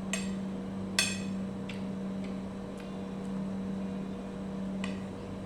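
Cutlery clinking against a plate several times, each strike ringing briefly, the loudest about a second in, over a steady low hum.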